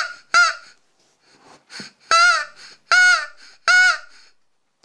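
Flambeau Squeeze & Play crow call, a soft bladder blown through an internal reed by a hand squeeze, sounding a series of caw-like calls. There is a short call near the start and two faint ones, then three longer calls under a second apart, each rising and falling in pitch.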